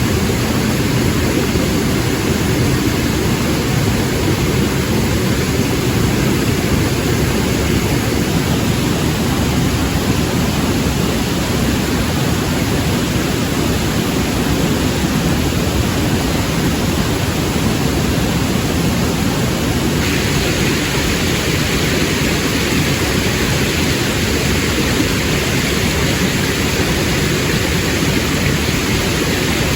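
Steady, unbroken rushing noise, strongest in the low range. The hiss in the upper range grows slightly brighter about two-thirds of the way through.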